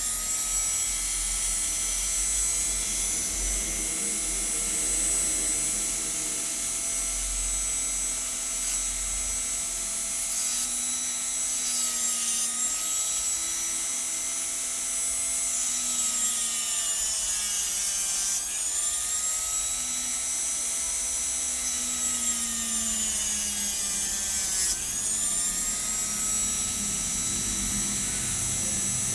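Small electric hand grinder running with a high, steady whine while an eyeglass lens is ground against it, with a rasping rub from the lens edge. The motor's pitch dips and recovers several times, as it slows under the pressure of the lens.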